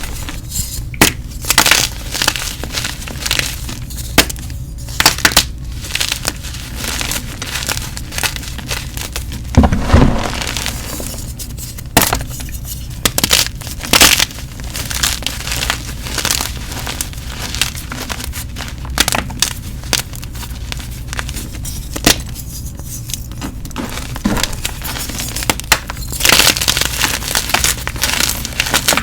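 Gym chalk being crushed and crumbled close to the microphone: irregular crunches and crackles, with one heavier crunch about ten seconds in, over a steady low hum.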